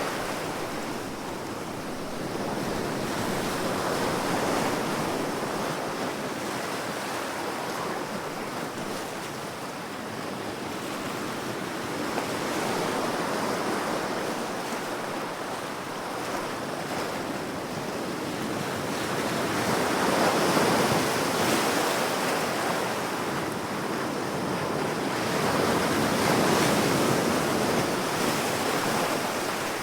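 Sea waves washing on a shore, the surf swelling and receding in slow surges every several seconds, with the loudest swells about two-thirds of the way in and near the end.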